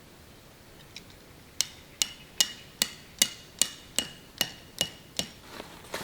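Hammer striking metal about ten times in a steady rhythm, roughly two and a half blows a second, each blow leaving a brief metallic ring. The hammering starts about a second and a half in and stops shortly before the end.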